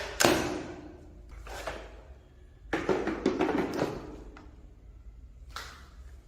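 Knocks and clatter of a cordless wet-dry vacuum mop being handled: a sharp knock at the start, then several short bursts of rattling and scraping, the longest about three seconds in.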